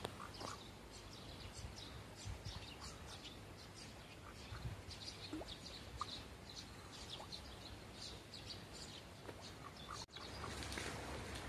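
Small birds chirping and singing in the surrounding trees, many short high calls scattered throughout, over a faint low outdoor rumble. About ten seconds in the sound drops out briefly and returns with a louder background.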